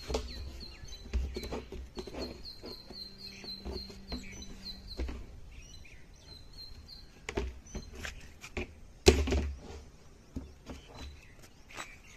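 A small bird chirping in a quick repeated series of short high notes over the first few seconds, with scattered knocks and a loud thump about nine seconds in.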